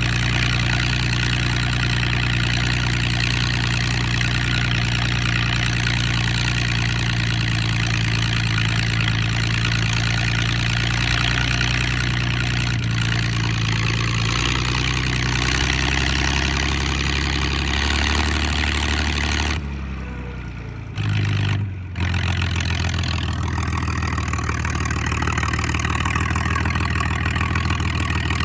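Straight-piped John Deere 4010 LP tractor's six-cylinder propane engine idling loud with no muffler, its exhaust coming straight out of the manifold. The idle note settles a little lower about halfway through, and near two-thirds through the sound briefly dips twice before the idle carries on steadily.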